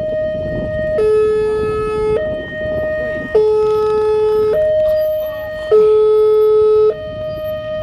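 Railway level-crossing warning alarm sounding: an electronic two-tone alarm alternating steadily between a higher and a lower note, each held a little over a second.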